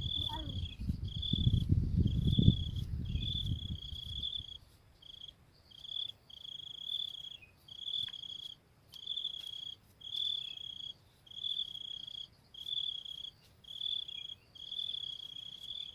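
Cricket chirping in a steady rhythm: short high trills, about one a second with brief gaps between them. A low rumble covers the first four seconds.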